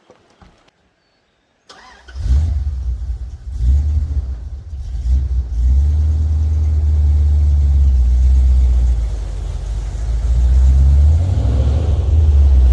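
First-generation Dodge Ram pickup's engine sets in about two seconds in and runs steadily with a deep, low drone, swelling a little near the end.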